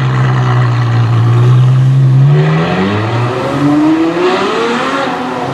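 Ferrari F12 Berlinetta's 6.3-litre naturally aspirated V12 accelerating hard. The engine note climbs, drops at a gear change a little over two seconds in, then climbs steeply through the next gear and drops again near the end.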